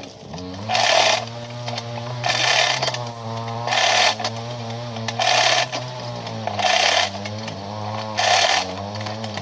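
An engine runs steadily, with a short rushing surge about every second and a half that makes its pitch dip and recover.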